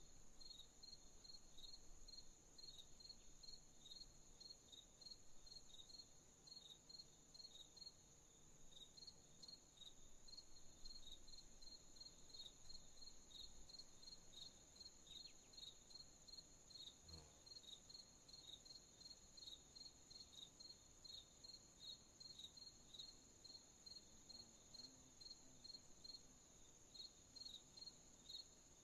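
Faint crickets chirping at night: a steady high trill with a second insect's regular short chirps, about two a second, below it.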